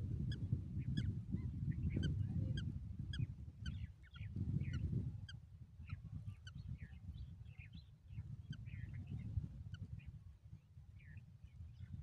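Birds calling: a quick series of short, high calls, several a second, over a steady low rumble.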